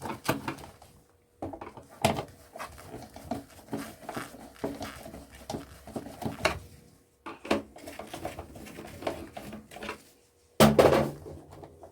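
Irregular clicks, scrapes and rattles of a screwdriver turning screws out of a plastic projector housing and the casing being handled, with short pauses.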